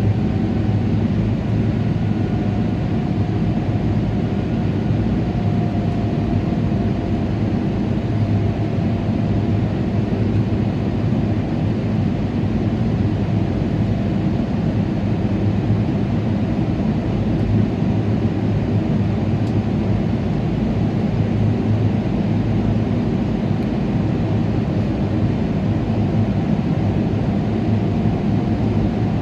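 Boeing 777-300ER's GE90 engines and airflow heard from inside the passenger cabin as a loud, steady drone with a deep hum, with a faint whine that sags slightly in pitch over the first several seconds.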